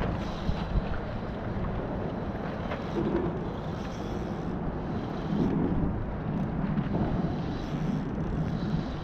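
Wind buffeting the microphone outdoors, an uneven low rumbling rush that swells and eases.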